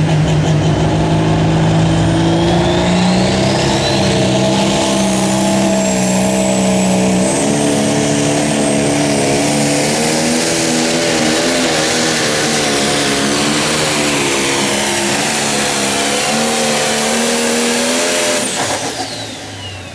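A Pro Stock pulling tractor's turbocharged diesel engine runs at full power through a pull. A high turbo whine climbs in pitch over the first several seconds. Near the end the engine cuts back and the whine falls away as it spools down.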